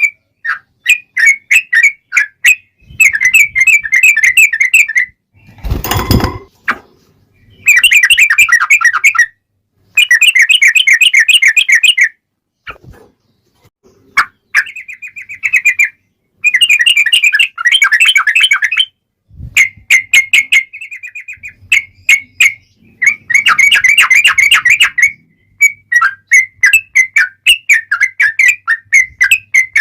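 Yellow-vented bulbul (trucuk) singing: long, fast chattering runs of notes lasting a couple of seconds each, broken by short gaps filled with quick sharp calls. A single loud thump-like burst comes about six seconds in.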